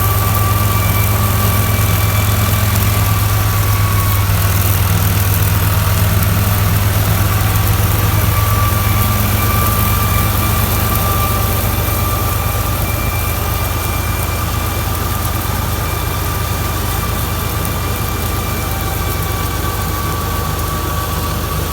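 Tractor engine running steadily, a low drone with a steady high whine over it, easing slightly about halfway through.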